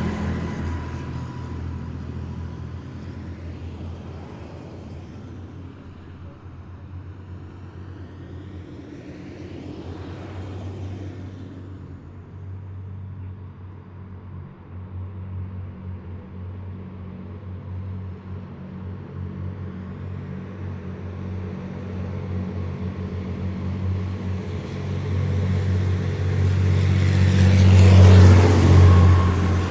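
Heavy military vehicles driving past with a deep diesel engine drone. One fades away at the start, another passes about a third of the way in, and the loudest approaches and goes by close near the end.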